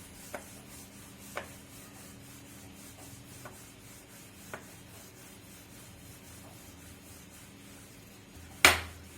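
Rolling pin rolling out pizza dough, a soft rubbing with a few light knocks. There is one sharp, loud knock near the end.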